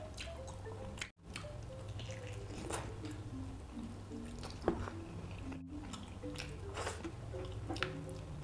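Close-up eating sounds: wet, sticky chewing, biting and sucking as braised oxtail meat is pulled from the bone by hand, over soft background music. The sound drops out twice very briefly, about a second in and midway through.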